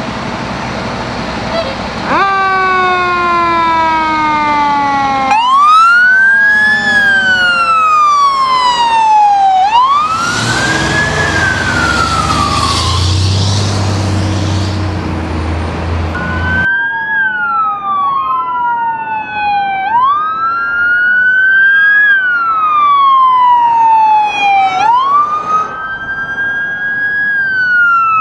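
Emergency vehicle sirens wailing, each slowly rising and falling over about three to four seconds. Midway a loud low rumble, a vehicle passing close, swells under the siren.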